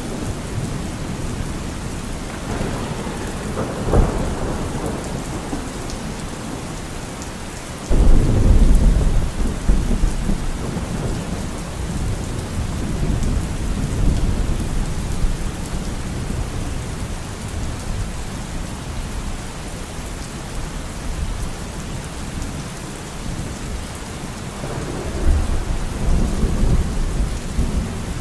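Steady rain falling, with thunder: a sharp crack about four seconds in, a loud low rumble that starts suddenly about eight seconds in and fades over several seconds, and another rumble near the end.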